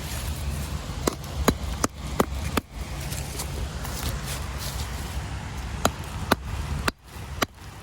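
A series of sharp, irregularly spaced clicks and knocks, about ten in all, over a steady low rumble.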